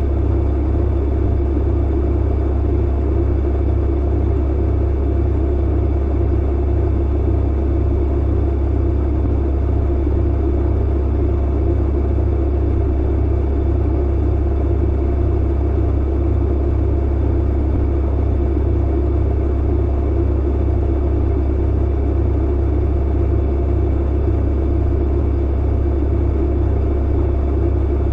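Clothes dryer running steadily: a deep, constant hum under the rumble of the turning drum, with no knocks or tumbling thuds.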